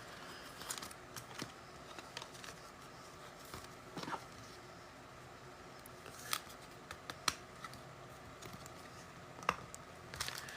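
Faint handling of trading cards and their packaging in a quiet small room: a handful of soft, scattered clicks and taps over a low steady background.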